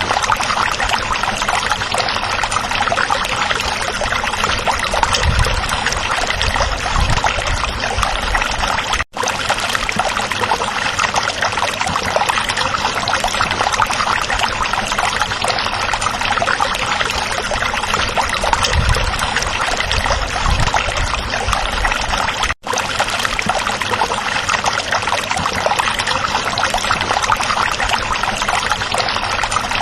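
Stream water babbling and trickling over stones, a steady rushing flow. It cuts out for a split second twice, about 9 and 22 seconds in.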